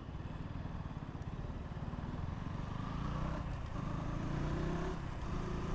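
KTM Duke 200's single-cylinder engine pulling away and gaining speed, its sound building gradually.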